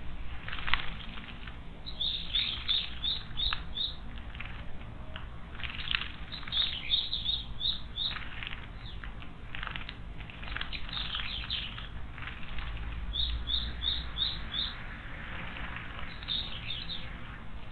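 Small songbird chirping in quick runs of five or six short high notes, repeated about five times, with a few soft brushy sounds between the runs.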